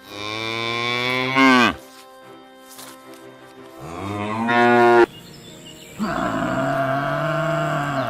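Cow mooing: three separate moos, each one to two and a half seconds long, the first two bending in pitch near their ends.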